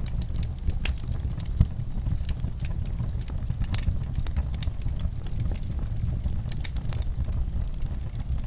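Wood fire burning in a fireplace: a steady low rumble of the flames with frequent small crackles and pops, one louder pop about a second and a half in.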